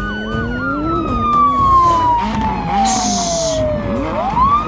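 A siren wailing in quick rising-and-falling cycles, about two or three a second, with a long falling tone gliding down over about four seconds and a short hiss about three seconds in.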